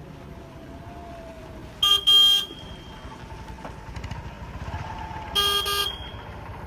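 A vehicle horn sounds a quick double toot about two seconds in and again about five and a half seconds in, over the running engines of passing street traffic.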